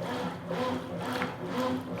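Consul Super Cargo 8 kg (CWL08C) top-loading washing machine agitating a load of towels: the motor hum comes and goes in a quick repeating rhythm as the agitator swings back and forth. It is moving strongly, its worn, oil-starved mechanism having been repaired.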